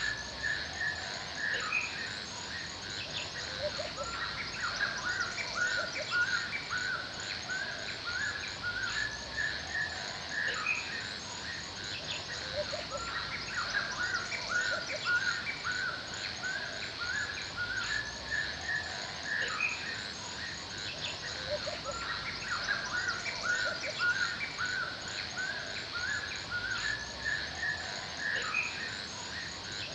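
Forest birds chirping, many short repeated calls overlapping without a break, over a steady high insect buzz.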